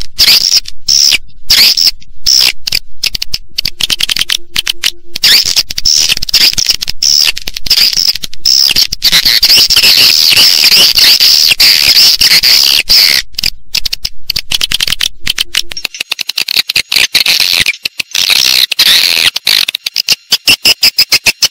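Recorded swiftlet calls, a dense high-pitched twittering chorus that breaks into separate chirps with short gaps near the end: a lure track played to draw edible-nest swiftlets into a nesting house.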